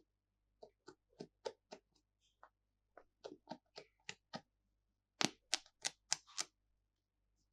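Candy packaging being handled close to the microphone: a string of short, sharp clicks and taps, about three a second, loudest about five seconds in.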